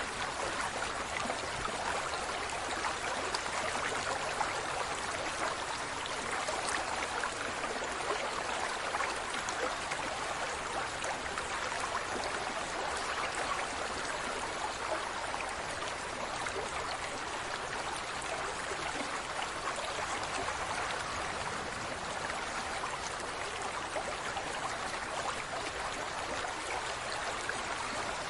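Steady running water, like a stream, a continuous even rush with fine trickling detail and no breaks.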